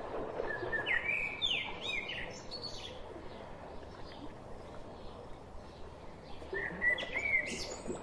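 A songbird singing two phrases of quick chirping notes that slide up and down in pitch, the first starting about half a second in and the second near the end, over a steady outdoor background hiss.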